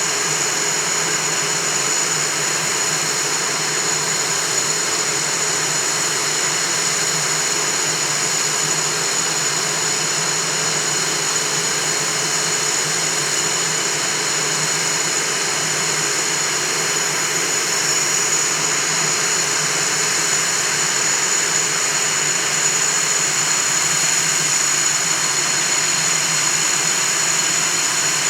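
Northrop F-5E Tiger II's twin J85 turbojets running steadily on the ground, a rushing jet noise with a constant high-pitched whine.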